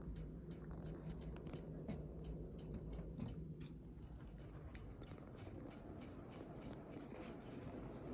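Minka Aire 56-inch Flyte ceiling fan running with a low steady hum and rumble, with a quick light ticking of several clicks a second over it that thins out near the end.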